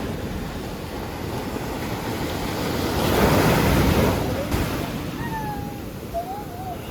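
Sea waves washing onto the shore, one swelling louder about three seconds in.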